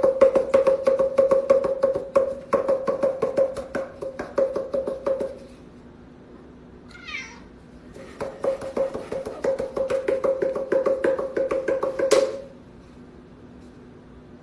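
A kitten vocalizing in a rapid, rhythmic pulsing cry at a steady pitch, in two runs of about five and four seconds. A short, high, falling squeak comes between them.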